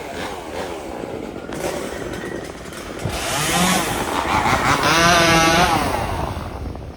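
Chainsaw engine running and revving, its pitch dipping and rising as it works, growing louder to a peak about five seconds in and then easing off.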